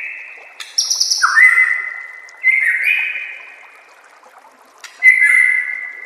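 White-rumped shama (murai batu) singing a series of long, level whistled notes. Each note opens with a quick, higher chatter, and there are about four phrases, a second or two apart.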